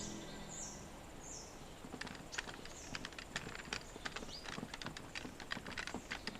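Birds chirping in short falling calls, fading out after the first second. From about two seconds in comes a run of irregular sharp clicks and knocks.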